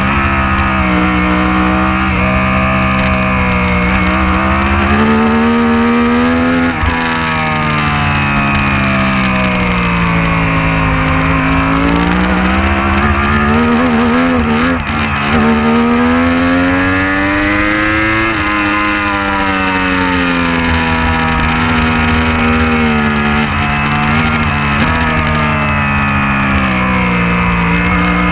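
Racing motorcycle engine running hard, its pitch climbing under acceleration, dropping sharply on gear changes and sinking as it slows into corners, over a steady low rumble.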